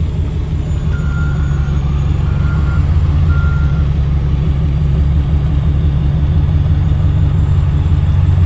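A Cat C13 diesel in a Kenworth W900B dump truck running with a steady low drone that grows slightly louder. Three short beeps from a reversing alarm sound about one to three and a half seconds in.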